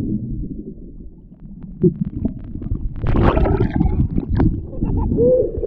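Muffled sloshing and rumbling of water in the surf, with scattered knocks and bumps. The sound is dull, with little treble.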